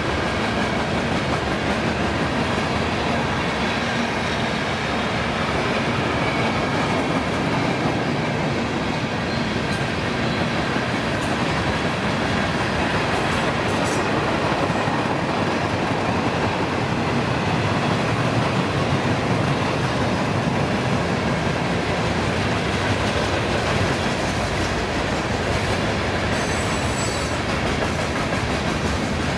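Train rolling past: a steady rumble and clatter of railcar wheels on the track, with brief high wheel squeals a few times.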